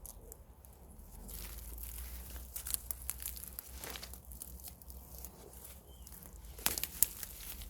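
Irregular rustling and crackling of plants, as when moving through vegetation, with a few sharp snaps near the end.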